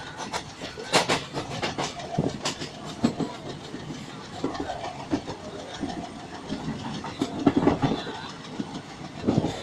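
Passenger train running along the track, heard from on board: a continuous rumble broken by irregular knocks and clatters of the wheels and carriages.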